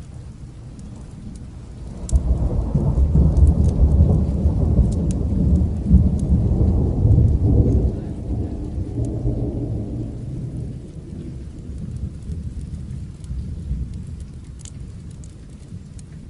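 A long roll of thunder over steady rain: the rumble breaks about two seconds in, stays loud for several seconds, then slowly fades while the rain goes on.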